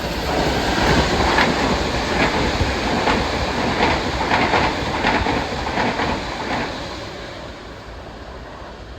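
Long Island Rail Road train passing along the station tracks, its wheels clacking about twice a second over the rail, the sound swelling at the start and fading away in the last couple of seconds.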